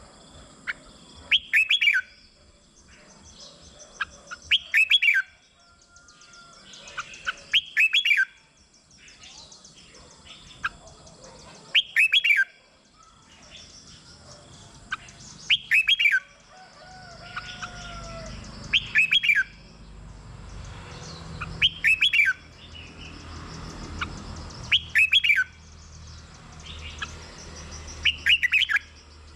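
Red-whiskered bulbul singing its short, loud, warbling phrase over and over, about once every three seconds. A fainter low rumble comes in about halfway through.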